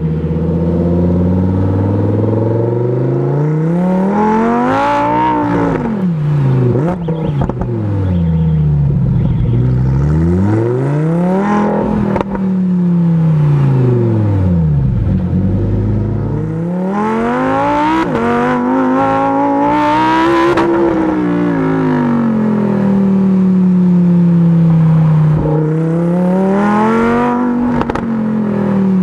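Lamborghini Huracán Performante Spyder's V10 engine in Corsa mode, revving hard and pulling up through the revs about four times, its pitch climbing steeply and then falling away again between pulls.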